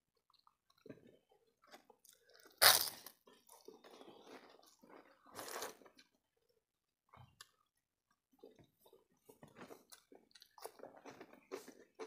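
Close-up eating sounds of people eating rice and curry by hand, with chewing and small wet mouth noises. A loud sharp crunch comes about two and a half seconds in, and another crunchy stretch a few seconds later.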